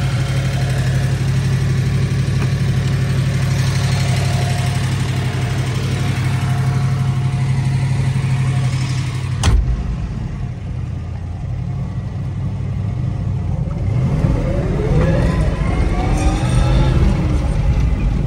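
1970 Chevelle SS's big-block V8 idling with a steady low rumble. About halfway through a car door slams shut, and after that the engine is heard muffled from inside the cabin, rising in pitch twice near the end as the car pulls away.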